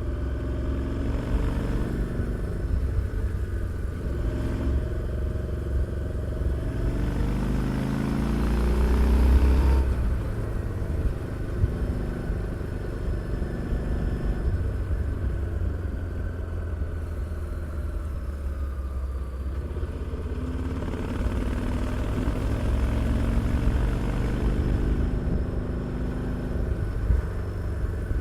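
Harley-Davidson Street 750's V-twin engine and exhaust under way, its revs climbing to a loud peak about nine seconds in and then falling away. It runs at a steadier pace and pulls up in pitch again in the second half, over a low rumble.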